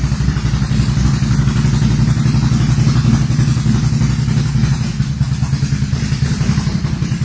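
Can-Am Renegade XMR 1000 ATV's V-twin engine, bored out to 1108 cc with a BOM Racing kit and 425 cams, running steadily through a full RJWC exhaust as a fast, even train of deep exhaust pulses.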